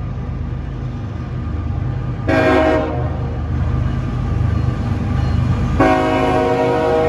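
Air horn on a CSX ES44AH locomotive lead unit sounding a multi-note chord: a short blast a couple of seconds in, then a long blast starting near the end. Underneath runs the steady rumble of the diesel locomotives working.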